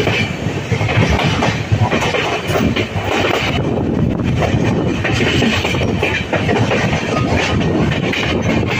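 Rajdhani Express passenger coaches running at speed, heard from on board. A steady rumble of wheels on rail, broken by irregular clacks as the wheels cross rail joints and points.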